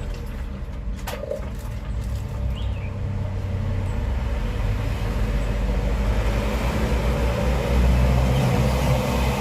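Motor vehicle engine rumbling on the road, growing steadily louder as it comes closer, with a couple of clicks about a second in.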